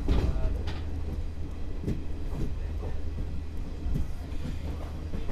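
Express passenger train running on the rails: a steady low rumble with irregular knocks and rattles from the wheels and coach.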